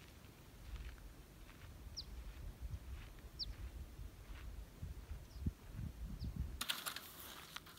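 A few short, high bird chirps, each falling in pitch, over a low rumble. Near the end a louder scratchy rustling starts suddenly.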